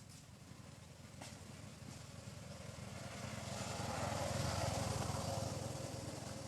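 A motor vehicle driving past, its engine growing louder to a peak about four to five seconds in, then fading away.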